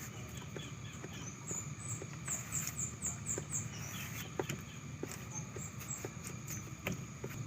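Small birds chirping, a quick run of short high cheeps in the middle, over scattered soft clicks of someone biting and chewing raw green mango.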